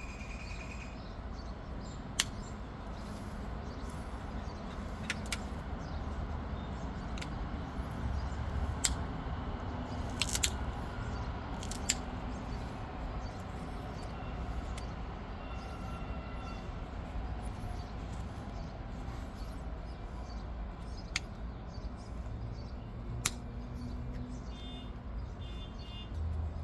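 Obsidian being pressure-flaked: scattered sharp, short clicks, about seven over the stretch, as small flakes snap off the edge, over a steady low background rumble.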